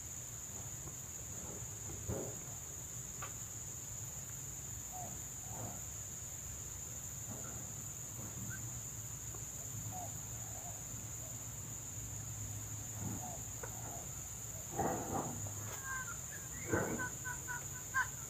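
Junglefowl clucking in short scattered calls, growing louder and quicker near the end, over a steady high insect drone.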